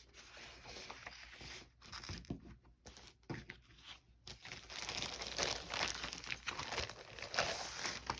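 Paper and plastic packaging crinkling and rustling as items are handled, with irregular crackles, getting busier and louder about halfway through.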